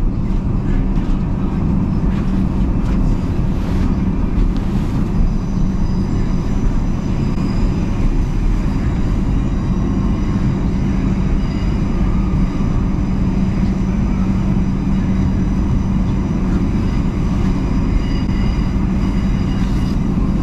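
Electric passenger train running steadily along the line, heard from inside the carriage: a constant low hum over the rumble of the wheels on the track. From about five seconds in, faint steady high whines join it.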